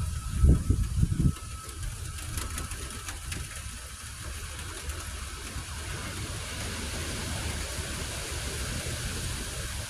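Thunderstorm noise on a phone microphone: a few heavy low thumps about half a second to a second and a quarter in, then a steady low rumble with a faint hiss.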